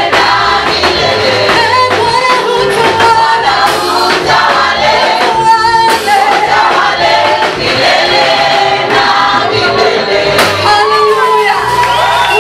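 Church choir singing a gospel praise song with band accompaniment, men's and women's voices together.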